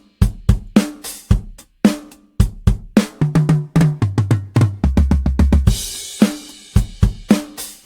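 Toontrack EZdrummer 3 sampled drum kit playing a groove of kick, snare and hi-hat. About three seconds in, a quick tom fill steps down from the high toms to the floor tom and lands on a crash cymbal near the six-second mark, after which the groove picks up again.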